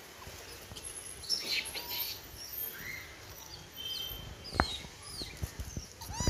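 Small birds chirping and whistling in short, scattered high calls over a steady outdoor hiss, with a few sharp clicks and knocks, the loudest about two-thirds of the way through.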